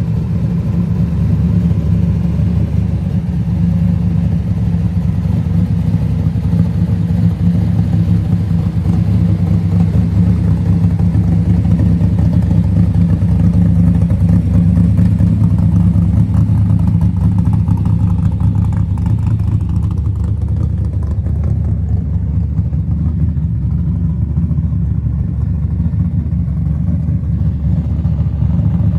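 Built 340 small-block V8 of a 1968 Dodge Dart GTS, fitted with a Six Pack intake and carburettors, idling steadily through its exhaust.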